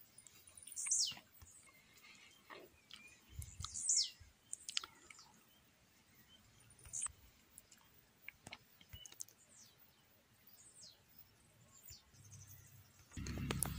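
Birds calling with short, high, downward-sliding whistles, the loudest about a second in and again about four seconds in, over faint scattered clicks. A loud low rumble comes in near the end.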